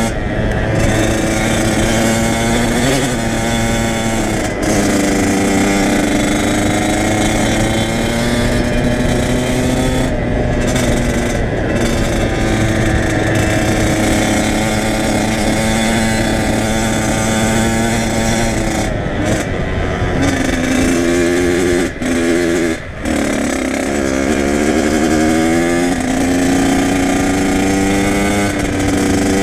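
Kawasaki KX100 two-stroke dirt bike engine running while riding, the revs rising and falling with the throttle. The engine note drops out briefly twice, about two-thirds of the way through.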